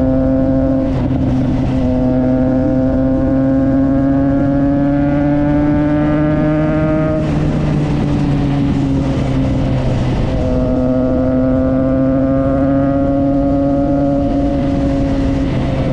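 Triumph Trident 660's inline three-cylinder engine through a Yoshimura exhaust, under way: the note climbs slowly as the bike pulls for about six seconds. It breaks off with a rush of noise about seven seconds in, then comes back as a steady, slightly falling note.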